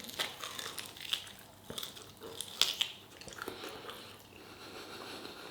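A person biting and chewing a mouthful of food close to the microphone, with scattered short wet clicks and crackles.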